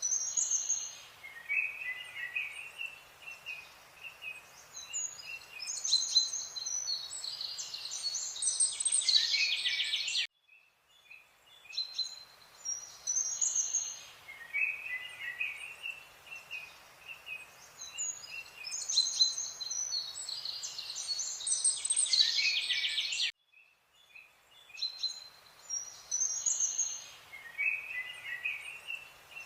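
Birds chirping and trilling over a faint steady hiss, as a looped recording that drops out briefly twice and starts over.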